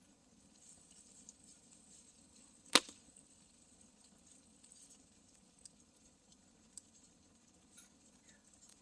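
Campfire wood crackling quietly, with one sharp, loud pop about three seconds in and a few small crackles afterwards.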